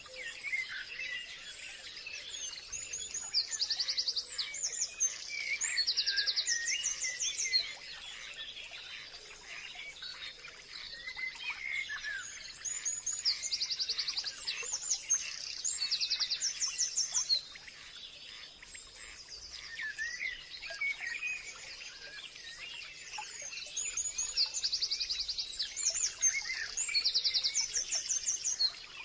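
Several birds singing and chirping, with quick repeated trills in bursts that come back about every ten seconds, over a steady thin high tone.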